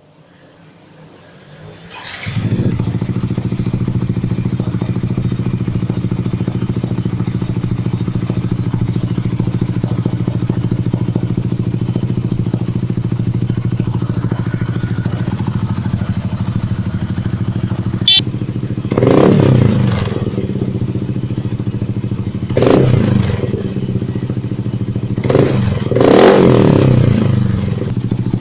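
Yamaha NMAX scooter's single-cylinder engine through an aftermarket racing exhaust, starting up about two seconds in and idling steadily, then blipped several times with short revs near the end.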